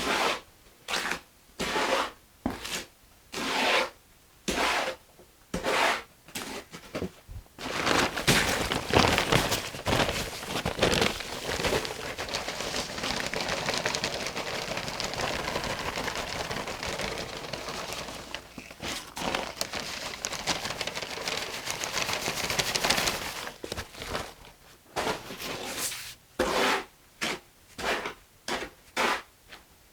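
Wet mortar being mixed by hand in a container, the tool scraping and rubbing through the thick mix in strokes about once a second. From about 8 s to 23 s the strokes run together into continuous, vigorous stirring, then the separate strokes return.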